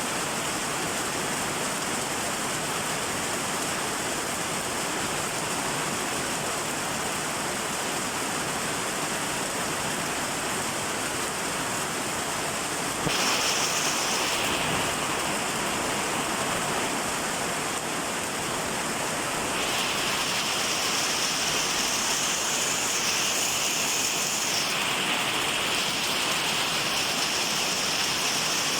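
Steady rain falling. A higher-pitched hiss cuts in abruptly about halfway through for a couple of seconds and returns for the last third, a little louder.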